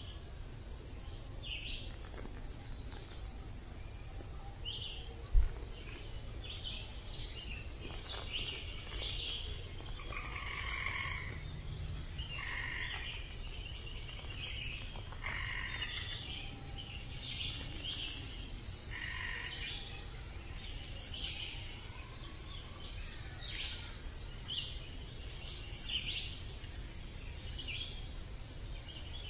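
Wild birds chirping and calling on and off throughout, many short high calls, over a steady low rumble. One sharp knock about five seconds in.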